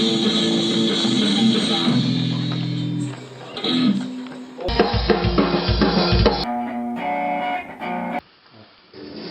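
Rock band music with guitars, cutting abruptly between several different recorded passages; the middle passage has heavy low bass notes, and the level drops briefly near the end before the music returns.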